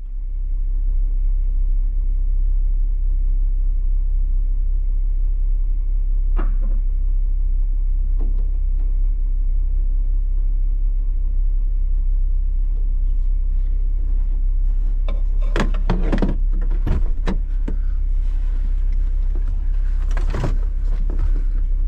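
Steady low rumble under occasional clanks and knocks of recovery gear being unrigged. The clanks are busiest about 15 to 17 seconds in, with another about 20 seconds in.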